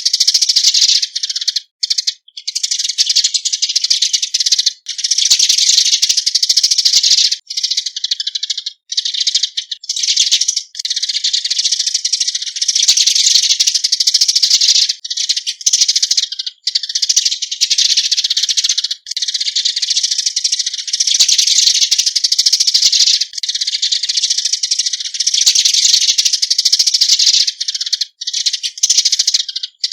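Eurasian tree sparrows giving their flock call: continuous high-pitched chirping and chattering, broken by short pauses every few seconds.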